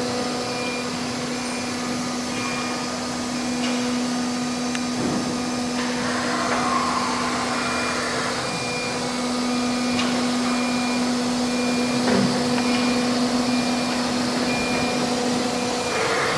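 CNC router with an automatic tool changer running: a steady spindle hum over a constant rushing machine noise, with a faint high tone pulsing about once a second.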